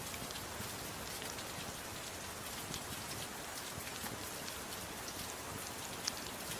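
Steady soft rain falling, with scattered sharp ticks of drops or fire crackles over it; one tick stands out about six seconds in.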